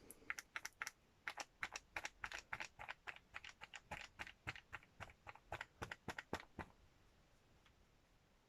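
A quick, irregular run of light taps or clicks, about four or five a second, stopping about two thirds of the way through.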